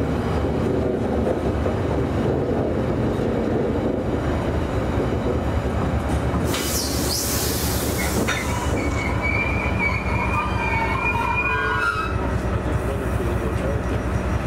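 Freight train of loaded flask wagons rolling past on a curve, the wheels rumbling over the rails. After a brief hiss about halfway through, the wheels squeal in several thin high tones for a few seconds as the Class 68 diesel locomotive draws alongside.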